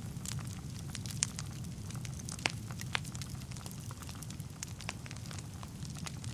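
Wood fire burning in a fireplace: a steady low rumble of flames with frequent sharp crackles and pops, a few louder snaps among them.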